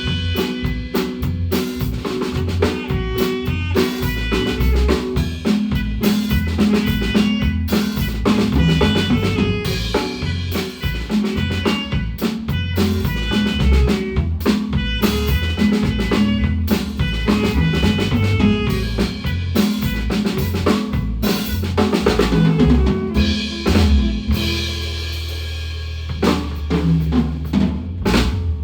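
A Guatemalan marimba band playing, with a drum kit to the fore: snare, rimshots and bass drum over held pitched notes. About 24 seconds in the drumming stops while a low note rings on, and a few last hits close the piece.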